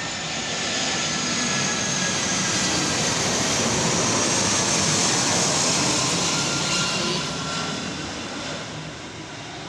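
Airbus A320-214's CFM56 jet engines during landing: a loud, rushing roar with a faint whine that swells to a peak around the middle and then dies away.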